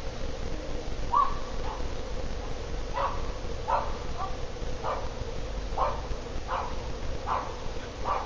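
CEC/Toastmaster ceiling fan running with a steady hum, over which come about nine short, sharp calls, roughly one a second.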